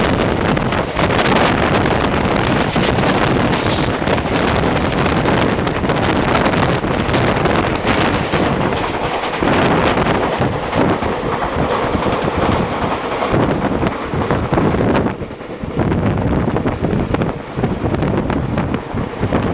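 Wind buffeting the microphone over the running noise of a moving passenger train, heard from on board. The noise eases briefly about fifteen seconds in.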